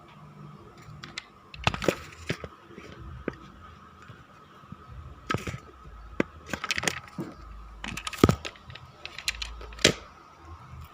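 Irregular clicks and knocks from hands handling a small battery-powered plastic robot cat toy, several of them sharp and loud.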